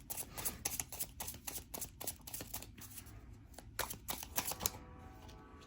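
Tarot cards being shuffled and handled: a run of quick, light card clicks and snaps that dies away near the end.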